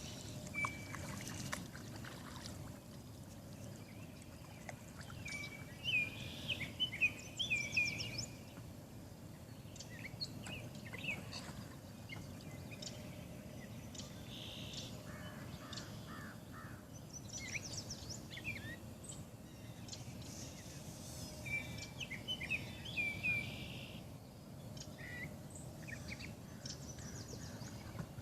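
Red-winged blackbird singing, repeating the same short song about three times, with other scattered bird chirps over a steady low background hiss.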